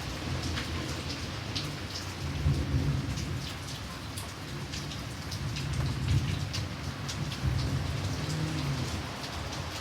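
Steady rain with individual drops ticking close by, under a low rumble of distant thunder that swells several times.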